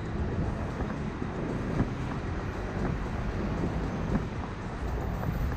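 Steady low rumble of a bicycle riding over city streets, with small clicks and rattles now and then.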